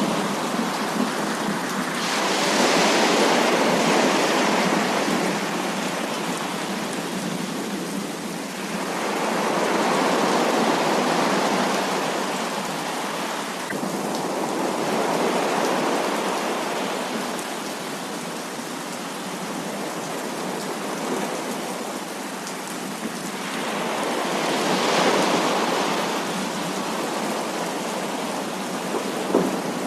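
Heavy rain falling in a continuous hiss, swelling louder and easing off three times.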